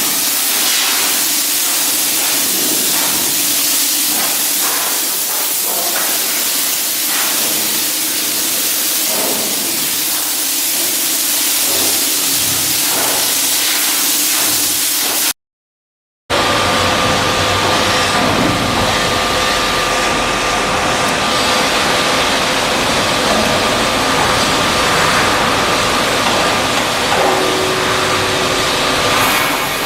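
Shipyard work noise: a loud, steady hiss for about fifteen seconds, then, after a short break, steady machinery noise with a faint whine held on two tones.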